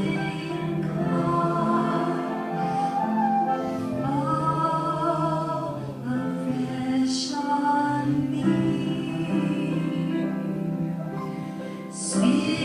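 Gospel worship singing: voices holding long, slowly moving sung notes.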